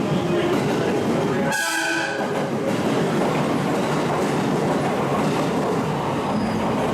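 A train running through the station, its wheels clattering over rail joints, with a short horn blast about one and a half seconds in.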